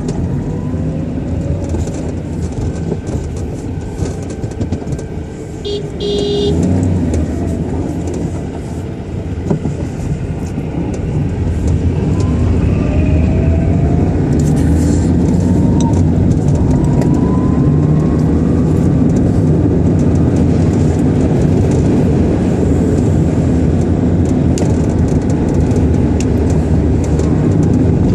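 A car driving in strong gusty wind: steady low engine, road and wind rumble that grows louder about twelve seconds in, with a brief high beep about six seconds in.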